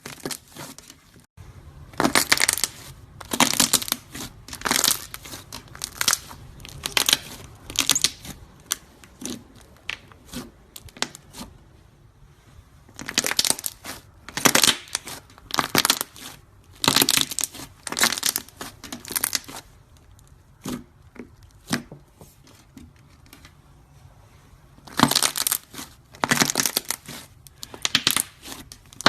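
A soft craft material, slime or modelling clay, squeezed, pulled and broken close to the microphone: dense runs of crackly, crinkly tearing and crushing sounds. They come in three runs with quieter stretches between.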